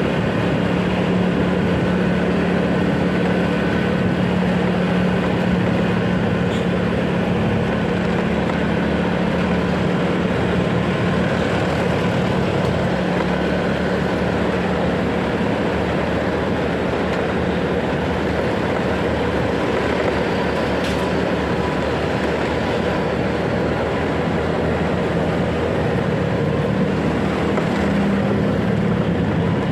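Motorcycle engine running at a steady pace while riding, with road and wind noise on the microphone.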